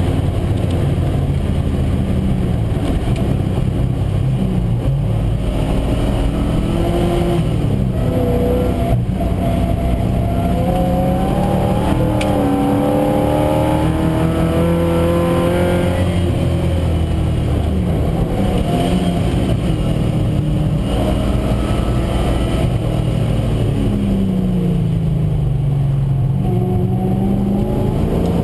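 Triumph TR7 V8's engine heard from inside the stripped race-car cabin at full track pace, revving up through the gears and dropping back on lifts and downshifts, its pitch climbing and falling several times, with a long drop and climb near the end. A steady road and wind rush runs underneath.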